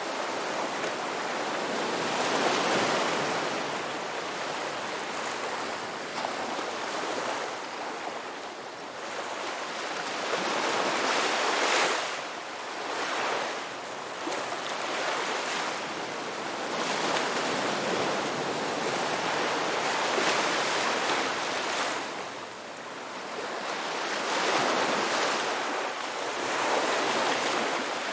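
Sea waves breaking and washing on a shore, in slow swells that rise and fall every few seconds.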